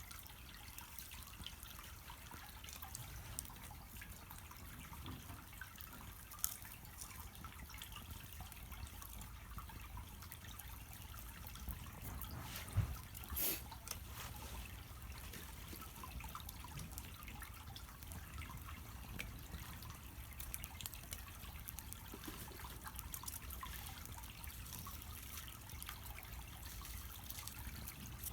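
Small wood fire burning on top of the charcoal in a shichirin clay grill, crackling with scattered small pops as the charcoal is being lit. A sharper pop about six seconds in and a louder one about halfway through.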